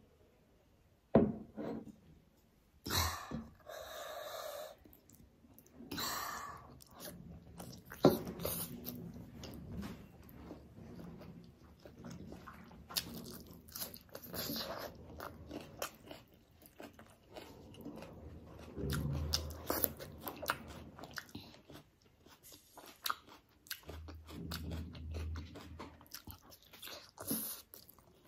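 Close-up eating sounds of a person chewing mouthfuls of rice and egg curry eaten by hand: wet chewing with many short mouth clicks, and a few louder sharp clicks.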